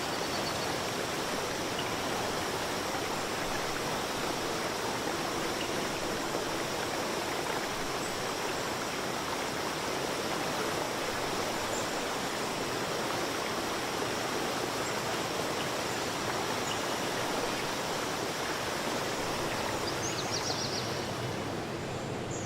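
Steady rushing of a flowing stream, an even, unbroken wash of water noise.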